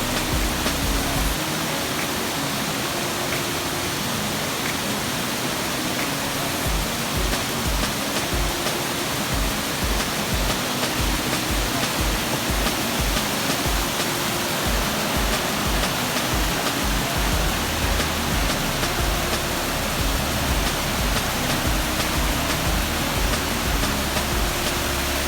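Steady rushing water of a large artificial waterfall, heard under background music: short melodic notes over a low pulsing beat that fades out for a long stretch, then comes back.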